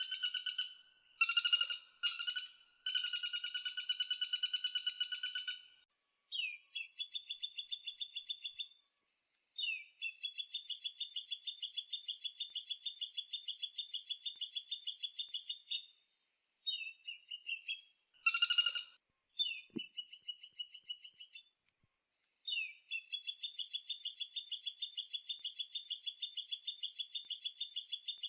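Woodpecker calls: bouts of rapid, high-pitched repeated notes, each bout lasting from about a second to six seconds, with short silent gaps between them.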